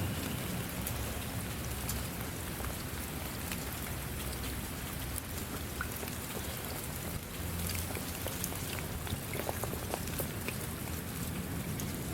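Steady rain falling, a constant hiss dotted with the ticks of individual drops striking a surface.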